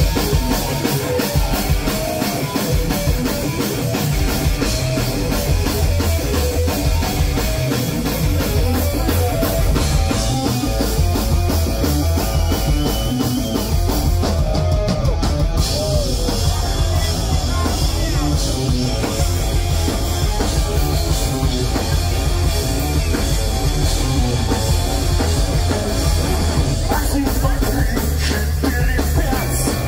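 Live pop-punk band playing loud with a full drum kit, bass and electric guitars.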